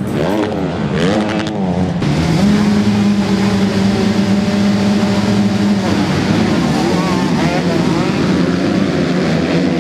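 MX2 motocross bike engines revving: pitch sweeps up and down, then is held steady at high revs for a few seconds before dropping, with more revving up and down after.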